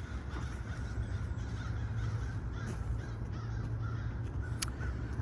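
Crows cawing, over a steady low rumble.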